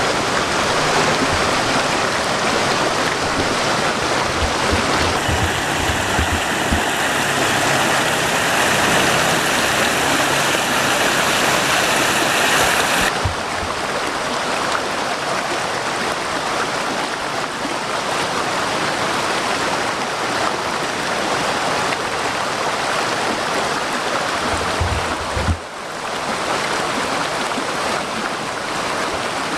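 Small waterfall splashing over rocks: a steady rush of falling water. The sound changes abruptly about halfway through and drops out for an instant near the end.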